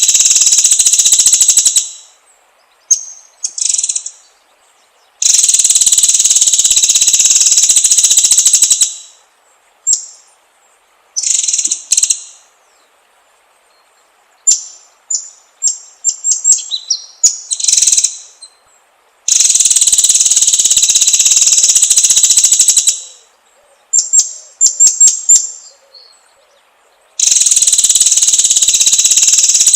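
White-rumped shama (murai batu) song: long, loud, harsh buzzing rattles of a few seconds each alternate with short high whistled notes and quick runs of chirps.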